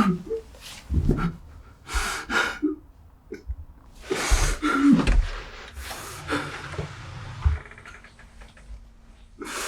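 A person gasping and breathing heavily in a small room, in uneven, ragged breaths a second or two apart.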